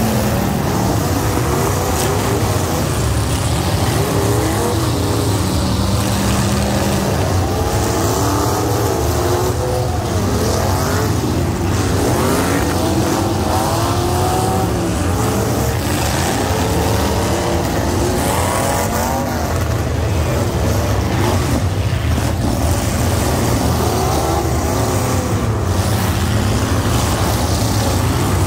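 Demolition derby cars with several engines revving at once, their pitch rising and falling over one another above a constant low rumble.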